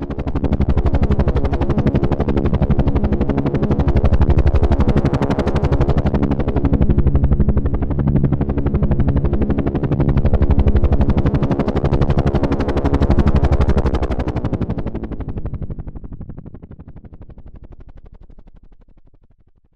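Helicopter rotor chopping rapidly over a low engine drone. It swells in at the start and fades out over the last five seconds or so, like a helicopter passing over.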